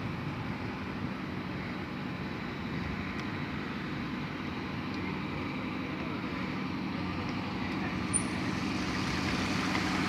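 A motor vehicle's engine runs steadily with road noise, growing slightly louder toward the end.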